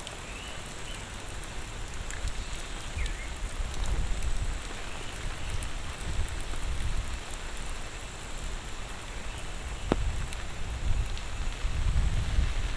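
Steady monsoon rain falling, an even hiss, with a low rumble that swells about a third of the way in and again near the end.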